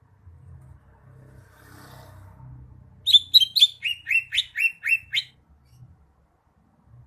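Cucak hijau (green leafbird) singing a fast run of about a dozen short, sharp downslurred notes lasting about two seconds, the first few higher and the rest a step lower.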